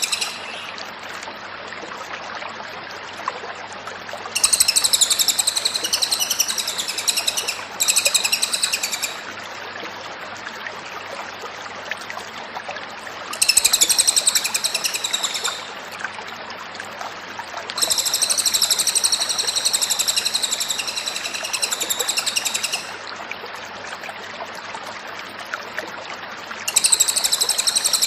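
Cililin bird singing in five bursts of fast, repeated high notes, each one to five seconds long, with pauses of a few seconds between them and a steady hiss underneath.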